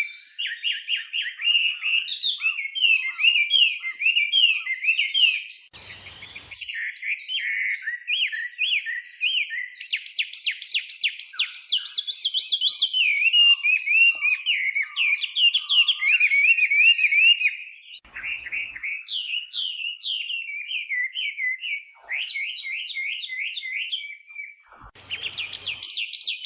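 Chinese hwamei singing a long, fast, varied song of whistled notes, each phrase repeated several times before it switches to the next. Three brief low thuds break in, about a fifth of the way in, about two-thirds through and near the end.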